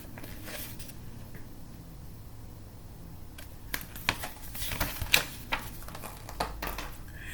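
Pages of a picture book being handled and turned: quiet room tone, then a scattered run of light clicks and paper rustles from about halfway through.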